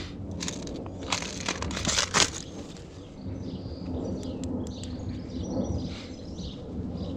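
Rummaging through a bin of discarded belongings: rustling and clattering of bags and small objects being handled, with a run of sharp knocks in the first couple of seconds, the loudest just after two seconds in, then quieter handling over a steady outdoor background.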